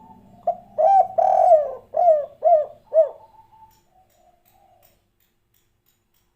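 Spotted dove (derkuku / tekukur) of the 'kuk 3' call type cooing one phrase of about six low, arched coos, the third one drawn out longer than the rest, in the first three seconds.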